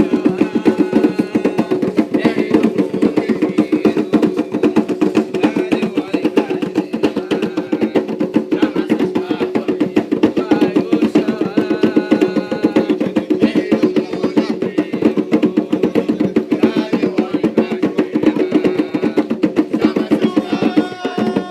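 Hand drums played in a fast, steady, driving rhythm, typical of the atabaques of an Umbanda ritual, with faint voices behind them. The drumming stops abruptly at the very end.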